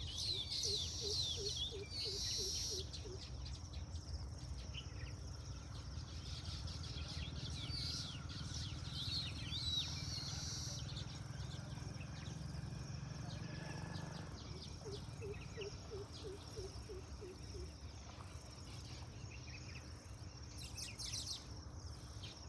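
Outdoor ambience of birds chirping in scattered bursts, over a steady high insect buzz and a low rumble. Twice, a short run of low, rapidly repeated notes comes in: near the start and again a little after the middle.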